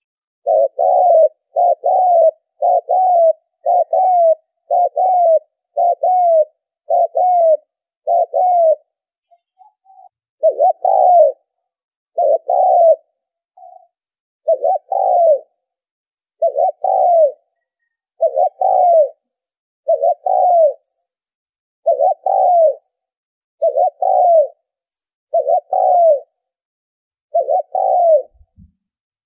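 Spotted dove cooing: a long series of short, low coos, about one a second for the first several seconds, then after a brief pause about one every two seconds.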